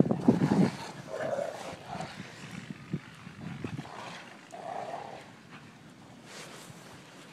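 Boxer dogs growling, low and rough, loudest in the first second, then a few fainter growls that die away.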